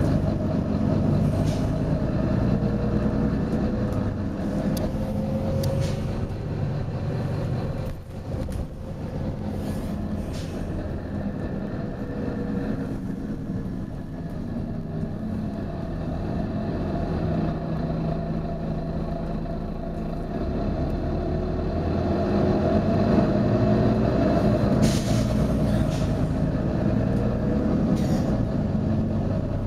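Volvo B9TL double-deck bus's diesel engine running as the bus drives, with a whine that rises in pitch several times as it gathers speed. A few short hisses of compressed air from the bus's air system cut in now and then.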